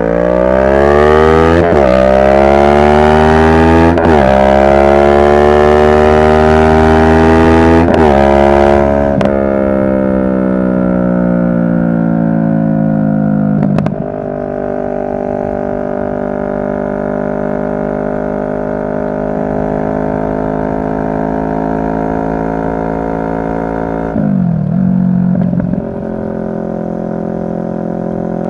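A 2023 CFMoto 650NK's parallel-twin engine accelerating hard through the gears, its pitch climbing and dropping suddenly at three upshifts in the first eight seconds. It then rolls off and winds down, settles to a steady cruise, and drops pitch again at another gear change near the end.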